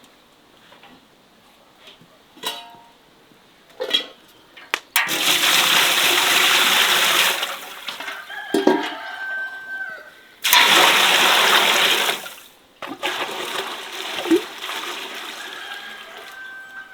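Water poured in two pours of about two seconds each, starting abruptly and trailing off, with a few short knocks and clicks of cookware between.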